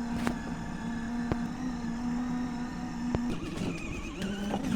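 A vehicle's motor running steadily with an even hum. A few sharp clicks sound over it, and the pitch shifts about three seconds in.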